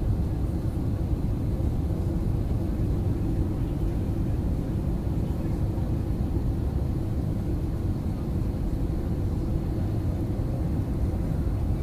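Airliner cabin noise during landing: a steady low rumble of engines and airflow, heard from inside the passenger cabin.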